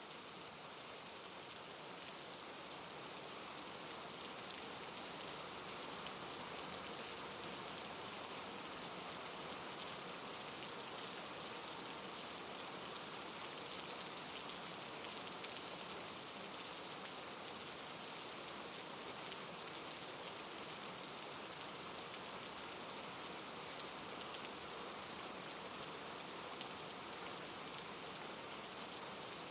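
Steady, soft rainfall, an even hiss of drops with a faint patter, rising a little in the first few seconds.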